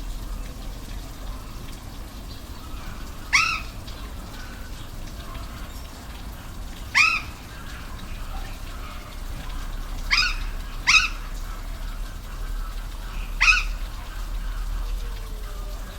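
Steady rush of a waterfall, with an animal's short, high call that rises and falls in pitch, sounding five times a few seconds apart, two of them close together.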